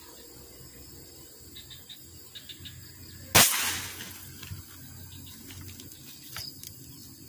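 A single sharp crack about three seconds in as a rubber-powered fish speargun is fired, dying away over about half a second. Faint insects chirp around it.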